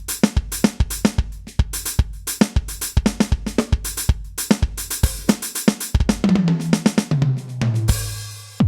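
KAT Percussion KT4 electronic drum kit playing one of its preset kits: a steady beat of kick, snare, hi-hat and cymbal. Near the end, a tom fill steps down in pitch.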